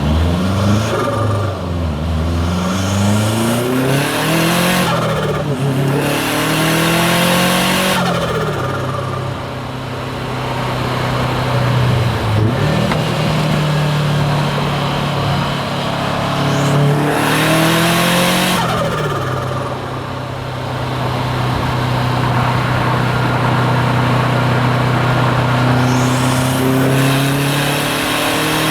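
Turbocharged Subaru WRX STI flat-four pulling hard through the gears, its pitch rising with each pull. Loud hissing from the external wastegate at the top of the pulls, about a third of the way in, around two-thirds of the way in and again near the end, with steady cruising between the pulls.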